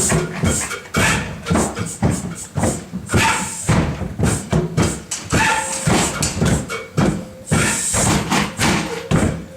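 A group improvising with their feet: irregular stamps and thuds on a floor, two or three a second, mixed with scuffing, sliding swishes.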